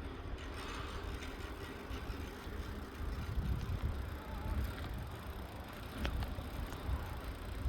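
Riding noise from a moving bicycle: a steady low wind rumble on the microphone over tyre and road noise, with a couple of faint clicks.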